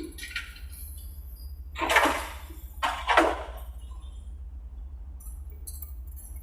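Mini excavator working: a steady low hum with two loud metallic clanks about two and three seconds in.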